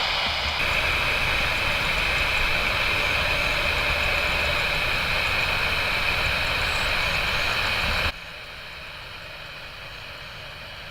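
Airbus A320's CFM56 jet engines at takeoff power, a loud steady roar and whine mixed with the hiss of heavy rain. It drops abruptly to a much quieter level about eight seconds in.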